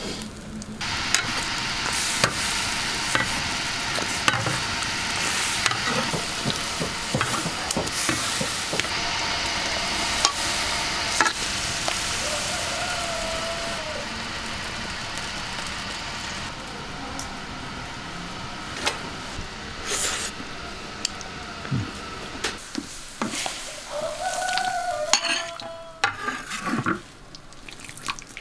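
Rice balls frying in hot oil in a wok, a steady loud sizzle with a metal spatula scraping and tapping against the pan. About halfway through the sizzle dies down, leaving scattered clinks of utensils against the wok and bowls.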